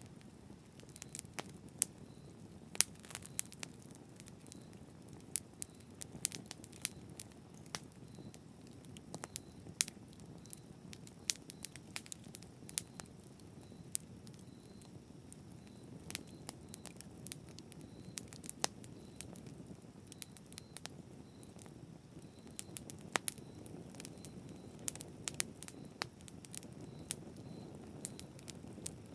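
Campfire burning, wood crackling and popping in frequent irregular snaps over a steady low rush of flame.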